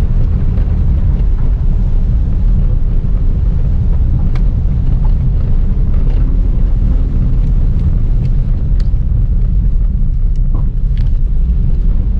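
Inside a Subaru WRX rally car being driven hard on a gravel stage: the turbocharged flat-four engine runs under load over a loud steady rumble of tyres and gravel, with scattered sharp ticks.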